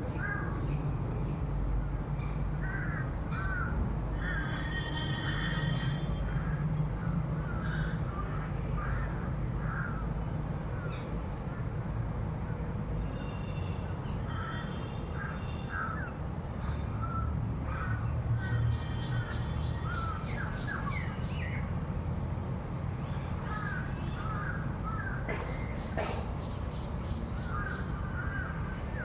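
Crows cawing, many short calls scattered throughout, over a steady high-pitched drone and a low rumble.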